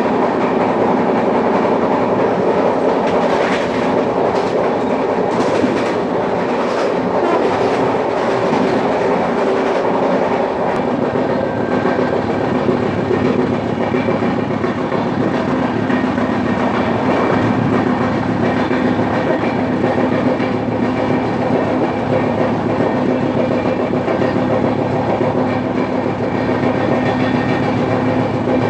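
Express passenger train running at speed: a steady loud rumble of wheels on rail, with a cluster of sharp clickety-clack clicks between about 3 and 10 seconds in.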